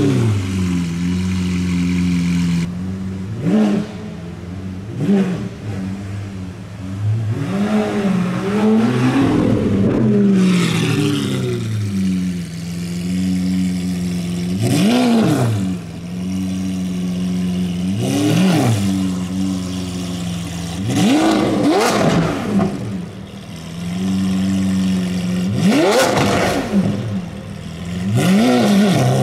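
Lamborghini Aventador's V12 idling with the throttle blipped repeatedly, about every three to four seconds, each rev rising sharply and falling straight back to idle.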